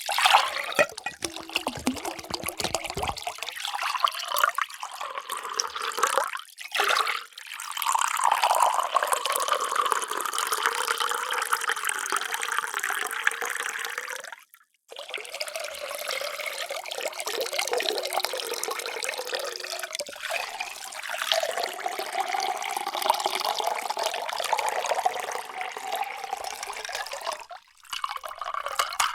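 Water being poured into a vessel in several separate pours, stopping briefly about halfway and again near the end. During the longer pours a tone rises slowly as the vessel fills.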